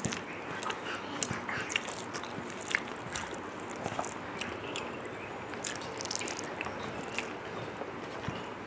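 Close-miked wet chewing and lip smacking of a mouthful of rice and curry: an irregular run of small clicks and smacks over a steady background hiss.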